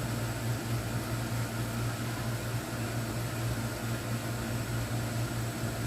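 Air conditioner running: a steady low hum under an even hiss.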